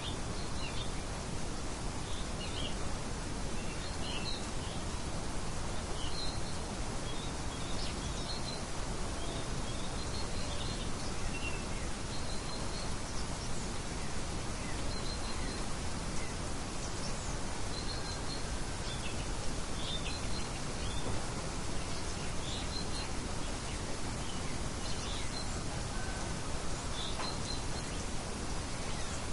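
Birds chirping over a steady background hiss of outdoor ambience: short high chirps scattered every second or so.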